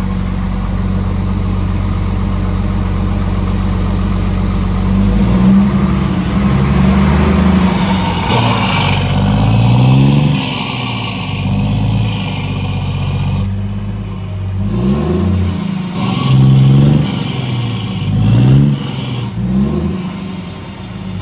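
New Scania truck's diesel engine, fitted with an exhaust diffuser, idling and then revved several times, its pitch rising and falling with each blip, with a high whine rising and falling along with the revs.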